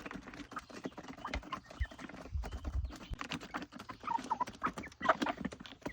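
Backyard chickens pecking quickly at feed mixed with crushed granite grit, a busy run of light tapping clicks, with a few short soft clucks about four and five seconds in.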